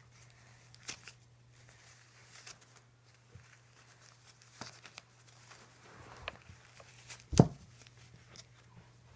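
Wrapping paper being torn and rustled as a Christmas present is unwrapped, in short scattered bursts. One sharp knock about seven seconds in is the loudest sound, and a faint steady low hum runs underneath.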